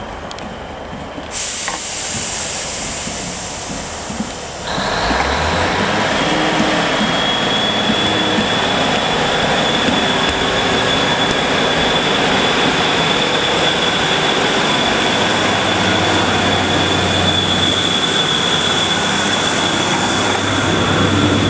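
Diesel multiple unit pulling out of the platform. A hiss of air starts about a second in, then the underfloor diesel engine opens up about five seconds in and the train accelerates away. The engine's low note runs under a steady high whine.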